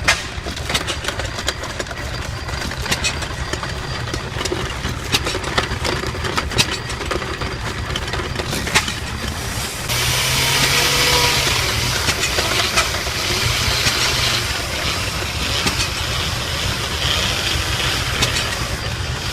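Antique stationary gas engine running steadily with a pulsing beat and sharp knocks. About halfway through, a loud hissing, grinding noise joins it and goes on almost to the end.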